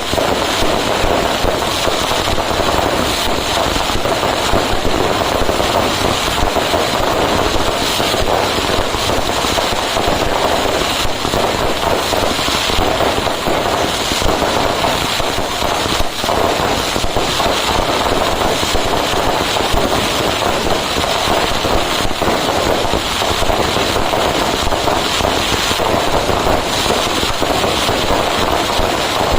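Fireworks going off in a dense, unbroken barrage of rapid crackling bangs.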